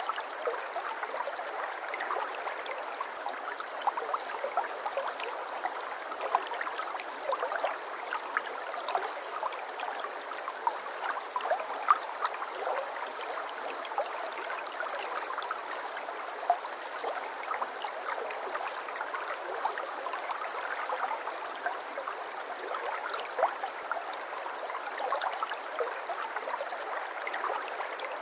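Small stream babbling over stones: a steady rush of running water thick with quick little plinks and gurgles.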